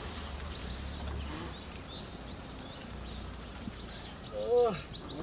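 Small birds chirping over and over in short high notes, with a single brief loud call about four and a half seconds in.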